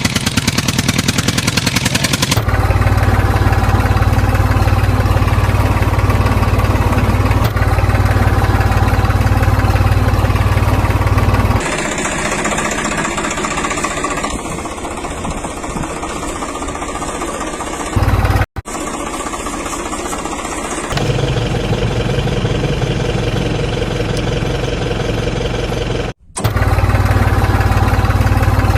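Tractor engine running steadily, its sound changing abruptly several times with brief cut-outs between spliced clips.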